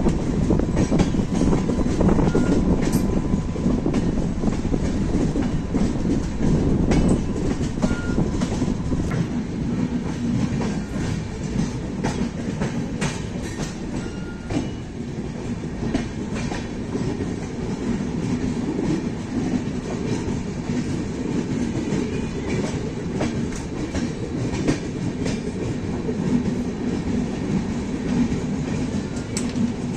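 Moving express train's coach rolling along the track: a steady wheel-and-rail rumble with scattered clicks from the rail joints.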